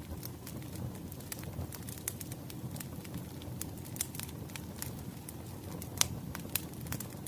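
Wood fire crackling: a steady low rumble with irregular snaps and pops of burning logs, the sharpest pop about six seconds in.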